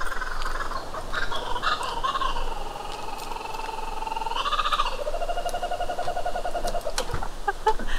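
A bird calling in the trees: a long wavering call that slides down in pitch, then a lower, steady note about five seconds in that lasts a couple of seconds.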